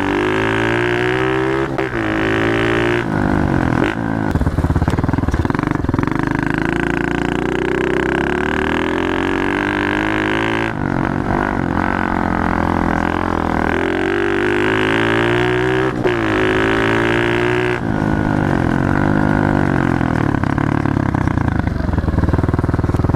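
Pit bike engine under way, its pitch rising and falling repeatedly as the throttle is opened and shut, with several sudden breaks in the drone.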